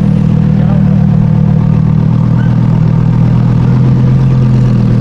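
A car engine idling at steady revs: a loud, even low drone that holds one pitch throughout.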